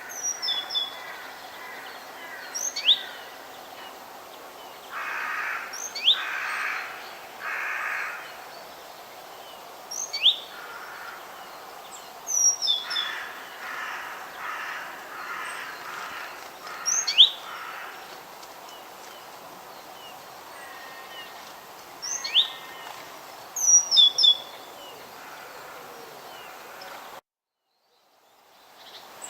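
Forest bird calls: short, sharp chirps that slide quickly downward in pitch, repeated every couple of seconds. Between them come runs of harsher, raspy calls, three in a row and then a longer series. A steady outdoor background hiss runs under them. The sound cuts out to silence for about two seconds near the end.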